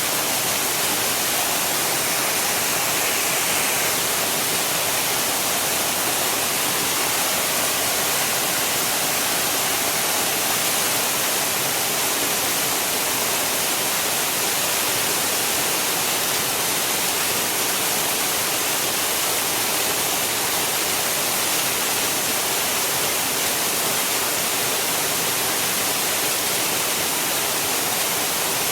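Steady rush of falling water from a stream waterfall, an even hiss-like noise with no pauses.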